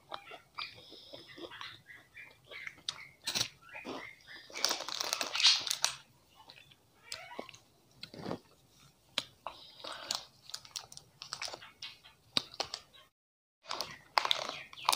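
Close-miked eating sounds: crunching and chewing a chocolate-coated wafer, with wet mouth clicks and smacks and a denser stretch of crunching about five seconds in. Near the end, plastic snack wrappers crinkle as they are handled.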